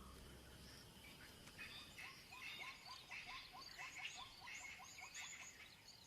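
Faint wild ambience: small animals calling in a quick run of short rising notes, about three a second, over scattered higher chirps.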